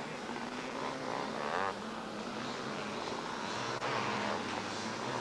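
500cc two-stroke motocross bikes racing, their engines revving up and down as the riders work through the course.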